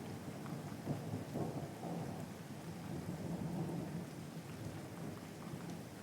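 Steady rain, its patter carried on a low, uneven rumble, with a few sharp drip-like ticks in the first half.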